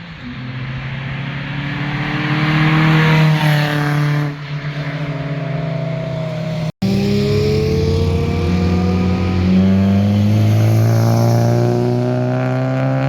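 Sports car exhausts accelerating hard past the listener, each engine note climbing steadily in pitch. The sound drops out for an instant about halfway through, and another car's engine then rises in pitch under acceleration.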